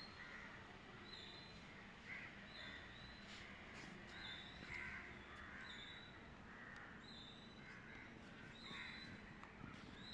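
Faint bird calls: short high notes repeated about once a second over quiet background noise.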